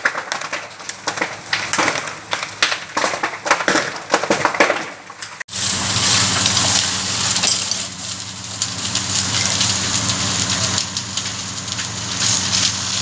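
Burning wooden house crackling and popping in dense, irregular snaps. About five seconds in it cuts abruptly to a steadier roar of the fire with a low hum and scattered crackles.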